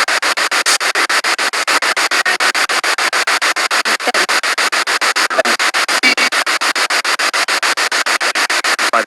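Spirit box radio sweeping through stations: loud static chopped into short pulses about eight times a second, with brief snatches of broadcast sound now and then.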